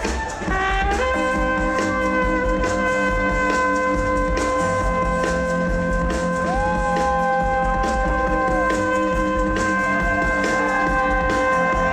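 Live highlife-gospel band music: a long held chord over a steady drum beat, with one line sliding up, holding and falling back in the middle.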